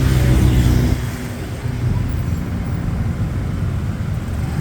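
Motorbike engine running among city street traffic, with a steady low road rumble. An engine note stands out for about the first second, then settles back into the traffic noise.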